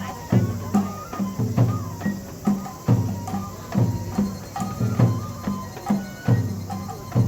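Japanese festival music for a lion dance: drums struck in a steady beat, about two or three strokes a second, under a high, sustained melody line.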